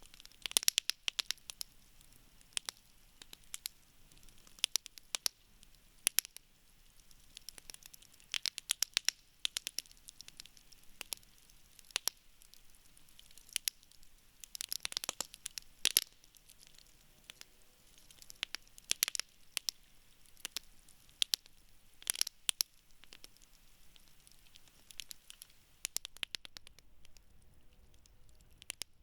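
Wood campfire crackling and popping: irregular sharp snaps, sometimes in quick clusters, over a faint low hiss of burning.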